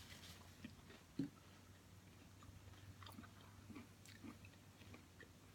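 Faint chewing and small mouth sounds of people eating, with scattered light clicks and a soft low thump about a second in, over a low steady hum.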